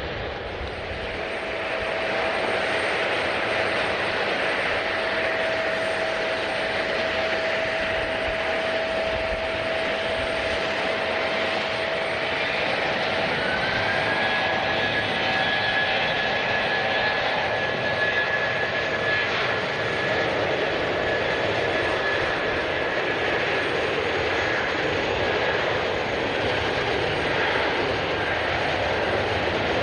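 Jet airliner engines running with a steady rush and a whine. The sound grows louder about two seconds in, and about halfway through the whine rises to a higher pitch and holds there.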